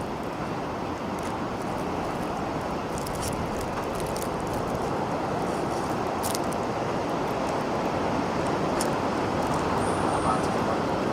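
Steady rushing roar of strong storm wind, swelling slightly toward the end, with faint scattered ticks.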